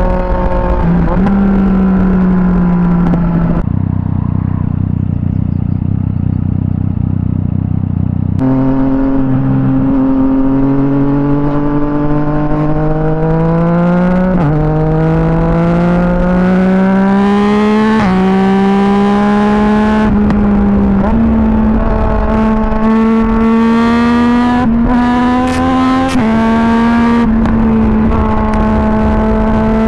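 Yamaha MT-09 SP's three-cylinder engine through an Akrapovic exhaust, heard on the move. A few seconds in, it falls to a duller, lower note for about four seconds. Then it pulls hard, rising in pitch with a sudden drop at each of three upshifts, and settles into a steady, slowly rising drone.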